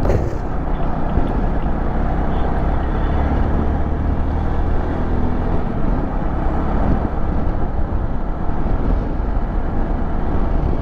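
Motorcycle on the move: steady engine note under wind and road noise, with no let-up.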